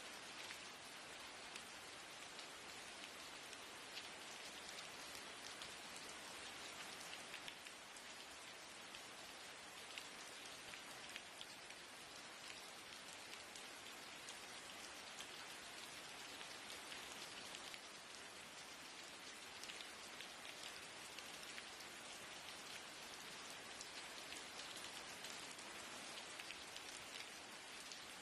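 Steady rain falling, a soft even hiss with many small drop taps, as of rain on a window.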